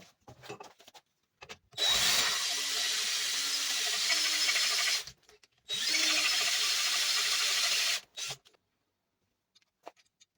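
Electric power tool run in two bursts of about three seconds and two and a half seconds, each starting and stopping abruptly, with light handling clicks before and after.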